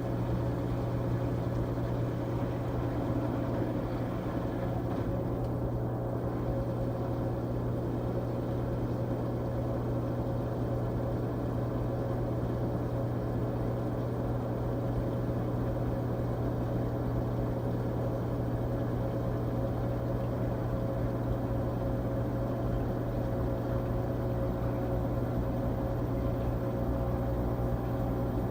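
13-year-old LG Tromm WD-CR101C front-loading drum washing machine running steadily through its quick-wash cycle, a constant low hum with no knocks or changes.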